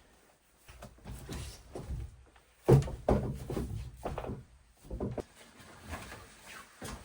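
A series of irregular knocks and thuds, the loudest a little under three seconds in.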